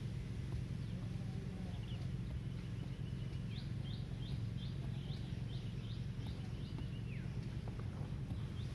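A songbird repeating a short song every few seconds: a run of quick rising notes, then a brief trill and a falling whistle. A steady low rumble runs underneath.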